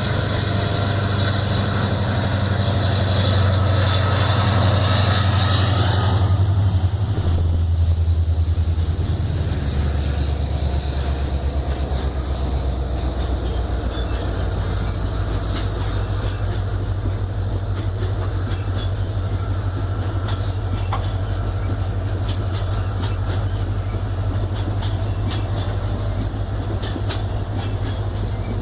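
Freight train passing: a diesel-electric locomotive's engine runs loud for the first six seconds or so, then the cars roll by with a steady rumble and clicking of wheels over the rail joints.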